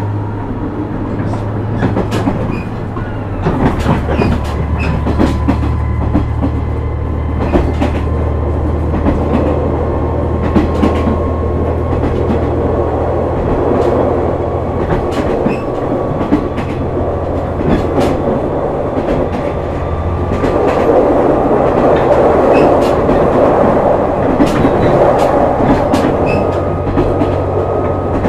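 Onboard running sound of a KiHa 126 series diesel railcar: a steady diesel engine drone with sharp clicks of rail joints passing under the wheels, and a faint whine slowly rising in pitch. About two-thirds through, the engine note shifts and the running noise grows louder.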